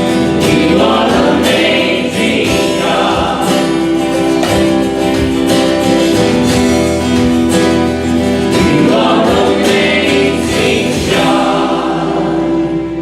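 Congregational or choir singing of a gospel hymn with acoustic guitar strumming, fading near the end.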